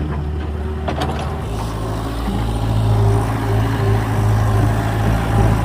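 Diesel engine of a small agricultural excavator running steadily, its note shifting about a second and a half in, with a couple of light knocks near the start.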